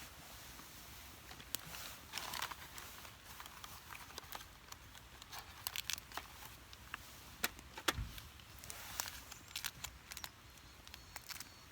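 Irregular light clicks, taps and crackles, sometimes several in quick succession, with one sharper knock about eight seconds in, over a faint steady low rumble.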